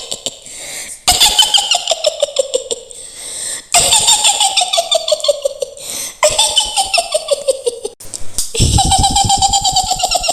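Mak Lampir's shrill witch cackle: a woman's voice laughing in rapid pulses that slide down in pitch. Four long cackles come one after another, with short breaks between them.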